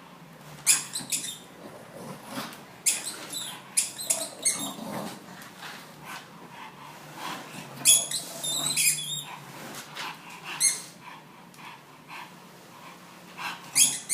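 Bulldog playing with a squeaky tennis ball: irregular bursts of short, high squeaks and dog noises over a low, steady hum.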